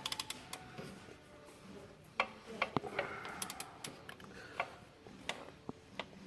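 Scattered light metallic clicks and taps of hand tools being handled on a partly rebuilt engine, a quick run of clicks at the start and more a couple of seconds in.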